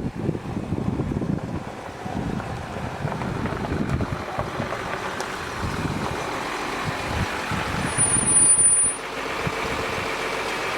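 Jeep Cherokee XJ moving slowly under its own power, with engine rumble and tyre noise. A brief high-pitched squeal comes about eight seconds in.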